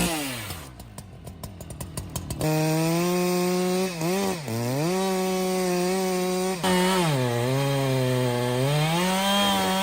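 Petrol chainsaw dropping from a rev to a rough idle, then opened up to full throttle about two and a half seconds in. Its pitch sags and recovers several times as it bogs down under load.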